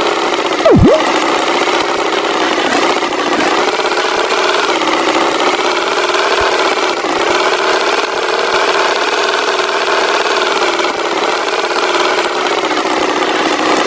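Tractor engine sound effect running steadily at a mid pitch, its tone wavering slightly. About a second in there is a quick, loud tone that swoops down and back up.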